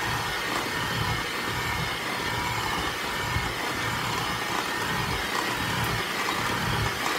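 Black+Decker electric hand mixer running steadily, its beaters turning through thin chocolate cake batter in a glass bowl.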